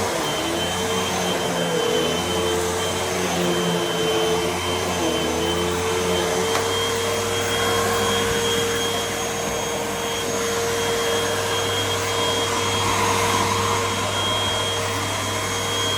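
Hoover WindTunnel upright vacuum cleaner running steadily: a constant motor drone with a thin high whine over it.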